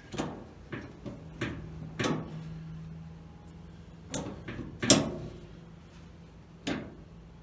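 About seven hard knocks and clunks as a B&M shifter is moved and set back down on the car's floor while being repositioned. The loudest knock comes about five seconds in.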